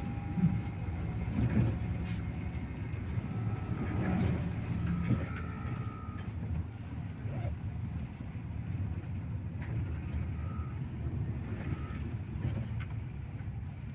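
Cabin noise of a MAZ-215 articulated city bus under way: a steady low rumble of engine and road, with a few knocks in the first seconds and short faint high tones a few times.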